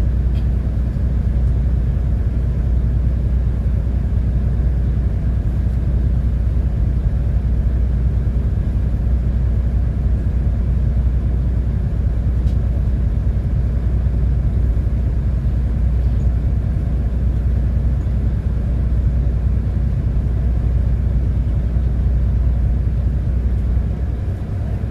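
City bus driving along at a steady pace: a constant low engine and road rumble that holds steady throughout.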